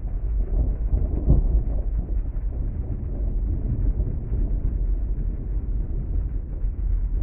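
Rain heard from inside a car cabin: a steady, muffled low rumble with no sharp patter, swelling briefly about a second in.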